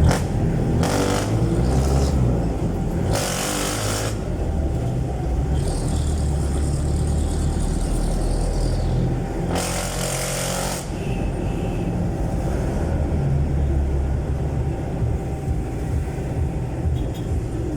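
Jeepney's Isuzu 4BC1 four-cylinder diesel engine running through a very loud aftermarket exhaust. Two brief rushing noises cut across it, about three seconds in and again about ten seconds in.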